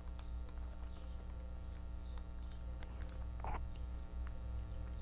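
Small birds chirping repeatedly in short, quick calls over a steady low background rumble, with a brief rush of noise about three and a half seconds in.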